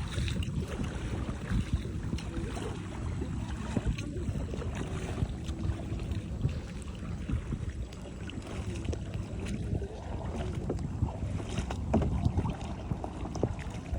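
Wind rumbling on the microphone, with irregular small splashes and knocks from a kayak and paddle being handled in the water.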